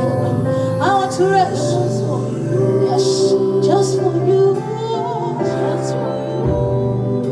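Worship music: singing with female voices over sustained instrumental accompaniment.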